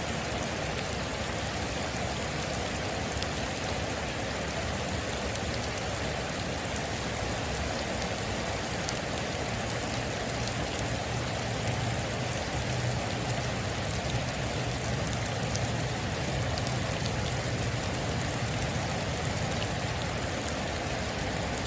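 Heavy rain falling steadily on a metal roof, an even rushing hiss with scattered individual drop ticks.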